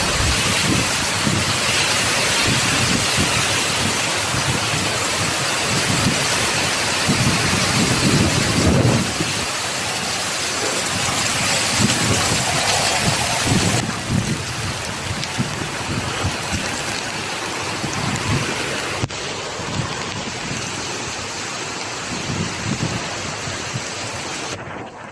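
Heavy storm rain, a dense steady hiss, with low rumbling surges of wind or thunder underneath. The sound drops abruptly in level a few times, about halfway, two-thirds of the way and just before the end.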